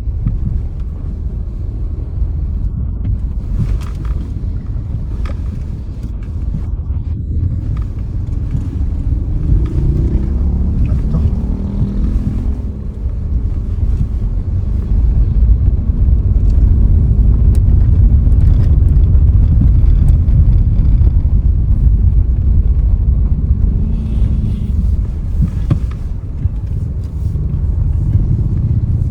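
Low rumble of a car driving along the road: tyre and engine noise, growing louder about halfway through, with a few faint clicks.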